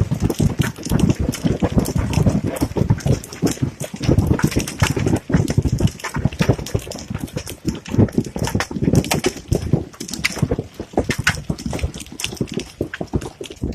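Large hailstones pelting down in a dense, irregular clatter of hard strikes, with some heavier single thuds among them.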